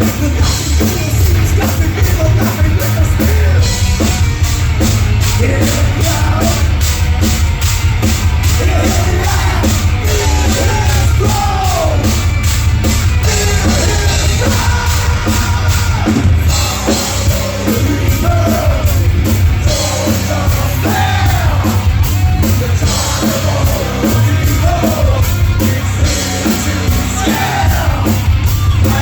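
Live rock band playing loud, with drums keeping a fast, steady cymbal beat under heavy guitars and a singer singing and yelling the vocal line.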